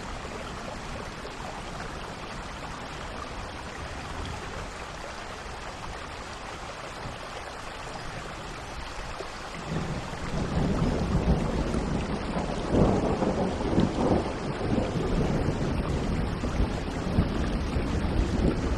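Steady rainfall with thunder: a deep rumble rolls in about halfway through, swells to its loudest a few seconds later and keeps rumbling under the rain.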